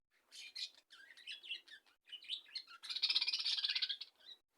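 Budgerigars chirping, breaking about three seconds in into a loud, fast, chattering warble.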